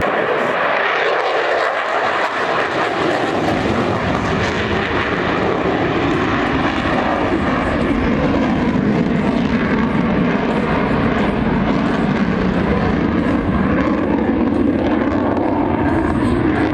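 Loud, steady jet noise from Blue Angels F/A-18 Hornet jets in flight.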